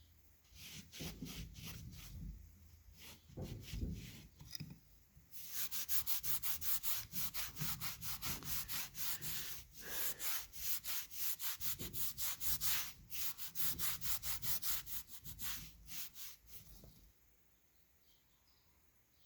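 Hand scrubbing with a brush on a cracked intake manifold, cleaning it before epoxy is applied. A few uneven strokes come first, then about ten seconds of fast, steady back-and-forth strokes, which stop near the end.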